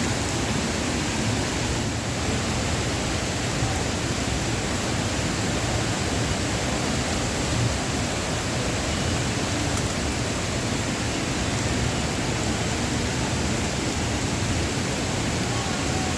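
Steady rushing of a waterfall, an even wash of falling water that does not change.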